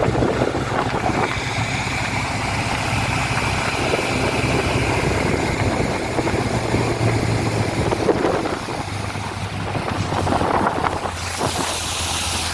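A 1959 Johnson 35 hp Super Sea-Horse two-stroke outboard motor running steadily, easing off slightly about eight seconds in, with wind rumbling on the microphone.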